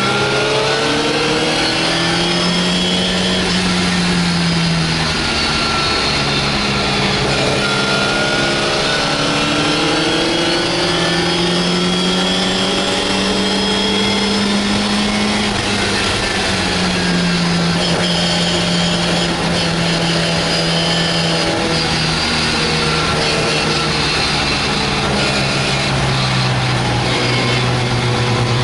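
MGA's four-cylinder engine at racing speed, heard from inside the cockpit. The revs climb and drop again and again as it is driven hard.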